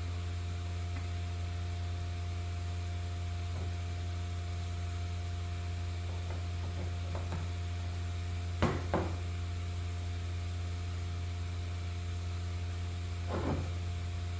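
Steady electrical mains hum throughout, with two sharp knocks close together a little past halfway and a softer knock near the end, like parts being handled on a workbench.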